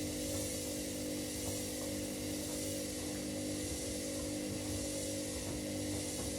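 Washing machines running mid-cycle: a steady drum-motor hum with several held tones and a constant hiss, unchanging throughout.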